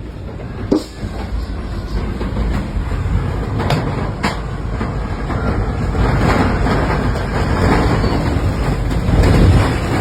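Tornado wind: a loud, steady, low rumble like a passing freight train, swelling in waves, with a few sharp knocks in the first half.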